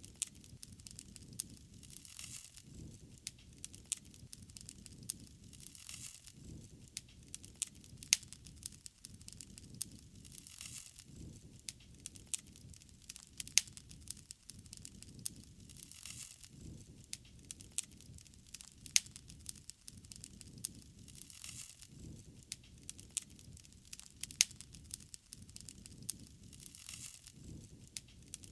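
Wood fire burning, with a low steady rumble and a run of crackles and sharp pops, a few of them much louder than the rest.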